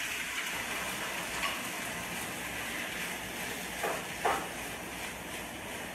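Raw chicken pieces sizzling in a hot frying pan, a steady hiss, with two short clinks of a utensil against the pan about four seconds in.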